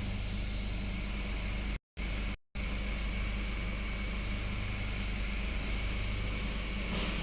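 Nissan Patrol ZD30 four-cylinder turbo-diesel engine idling steadily just after being started, with the new engine mount fitted. The sound cuts out twice briefly about two seconds in.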